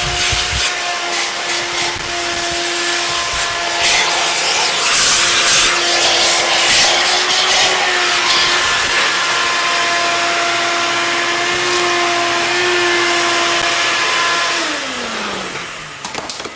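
A high-speed electric motor whining at a steady pitch over rushing air, the rush surging for a few seconds. Near the end it is switched off and its pitch falls as it winds down.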